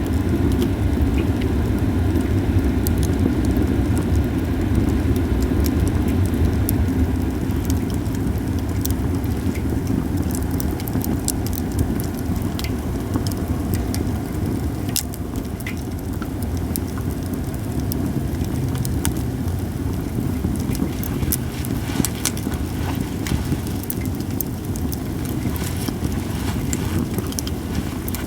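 Cedar-wood campfire crackling, with scattered sharp pops, over a steady low rumble that fades a little.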